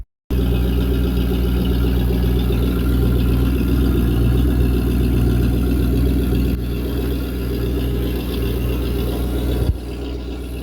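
Boat's Volvo Penta sterndrive engine idling steadily, freshly fitted with a rebuilt carburetor and a new raw-water pump impeller. It drops a little in level about two-thirds of the way in, and again near the end just after a short click.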